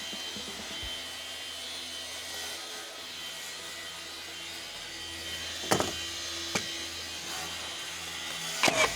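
Power tool running steadily on timber, with a few sharp knocks partway through and near the end.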